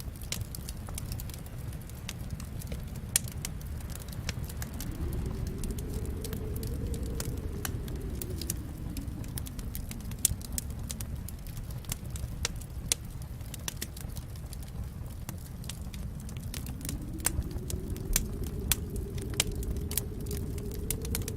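Fireplace fire crackling, with many irregular sharp pops and snaps over a steady low rumble of flames. The rumble swells and falls back twice.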